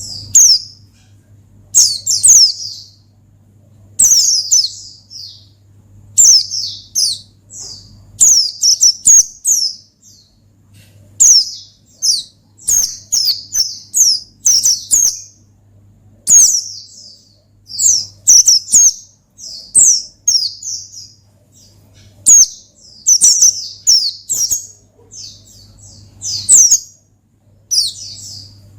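Pleci (white-eye) singing close up: loud, rapid bursts of high, steeply falling chirps and twitters, one phrase every second or two, with short gaps between. A faint steady low hum lies underneath.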